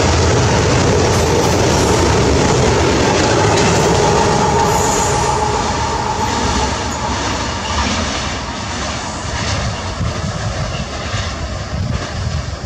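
Freight train passing through a station at speed: a loud, steady rush and rumble of wheels on rail with a held whine in the first half. It turns quieter and more uneven in the second half as the train draws away.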